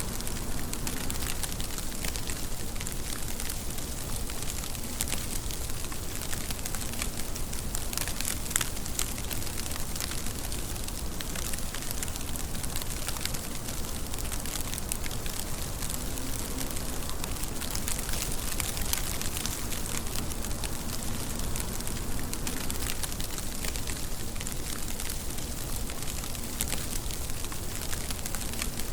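Steady rain falling, with a dense patter of close drops ticking and crackling on a surface.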